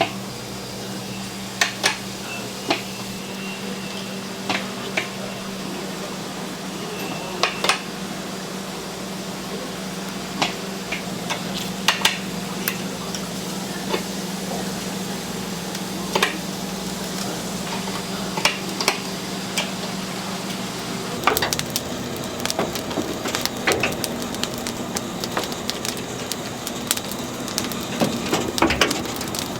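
Kitchen work: scattered sharp clicks and knocks of utensils against wood and dishes over a steady low machine hum, which shifts about two-thirds of the way through.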